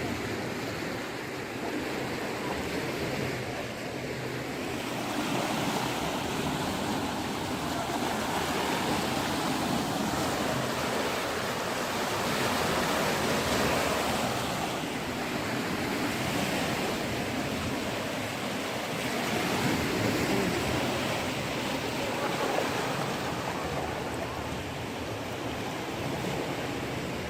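Floodwater rushing and splashing: a steady, noisy rush that swells and eases every few seconds.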